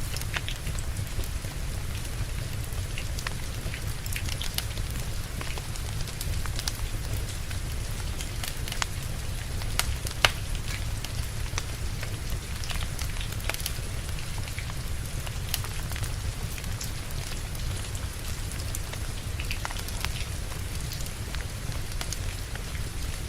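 Steady rain with a low, continuous rumble under it, mixed with a crackling wood fire: scattered sharp pops and snaps of burning logs throughout, the sharpest about ten seconds in.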